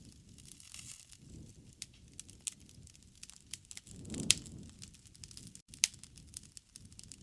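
Wood fire crackling, with irregular sharp pops and snaps over the soft low rush of the flames. The loudest pop comes a little over four seconds in.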